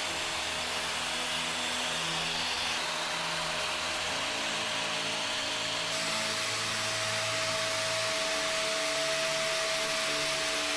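Vacuum cleaner running steadily: rushing air with a constant motor whine, which shifts slightly higher about halfway through.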